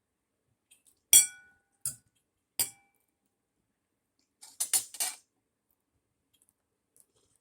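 Cutlery striking a plate: three sharp clinks, each with a brief ringing tone, the first the loudest, then a quick rattling clatter of utensils against dishes a couple of seconds later.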